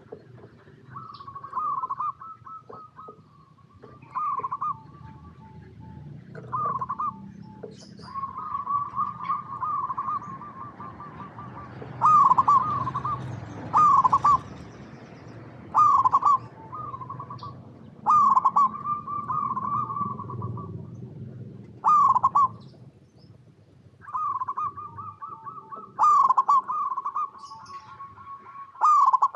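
Zebra dove (perkutut) cooing: repeated rolling, stuttering coo phrases, the louder ones coming about every two seconds through the middle and longer trilled runs near the start and end.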